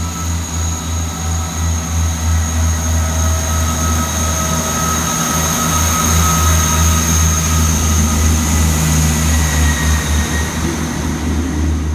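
A Class 158 diesel multiple unit pulling away, its underfloor diesel engines running with a heavy low throb under a steady high whine.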